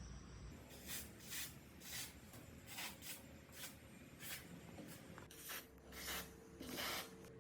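Repeated hand rubbing or scraping strokes on a rusty part, about two a second and unevenly spaced, as the old water pump is cleaned by hand.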